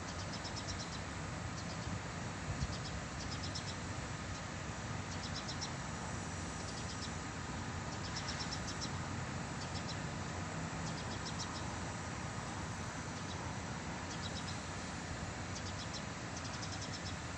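Birds chirping in short, rapid, high-pitched trills that repeat every second or two, over a steady background noise.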